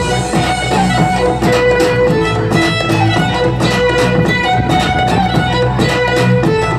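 Violin playing a melody of held notes over a backing track with a steady beat.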